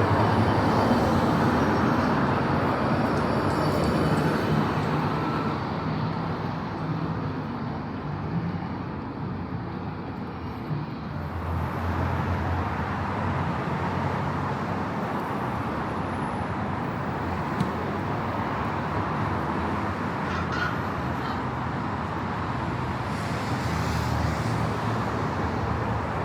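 Road traffic on a city street, cars going by. It is louder at the start, eases off, then builds again about eleven seconds in.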